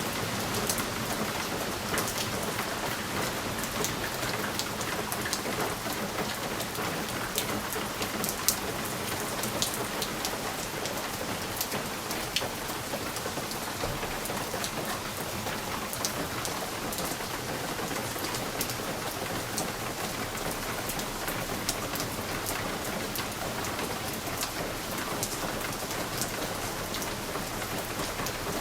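Steady rain falling on a window, with many separate drops tapping sharply against the glass over an even hiss.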